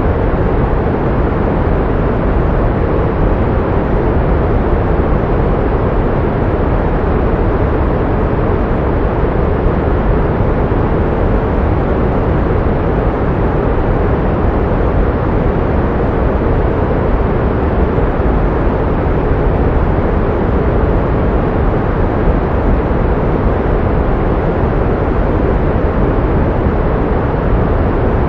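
Steady pink noise: an even, unchanging hiss, heavier in the lows and mids, with the highest treble rolled off.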